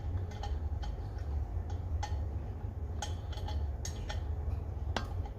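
Small metal parts of a Coleman 530 pocket stove clicking and tapping as they are handled and fitted back together, with irregular light ticks and one sharper click near the end, over a steady low hum.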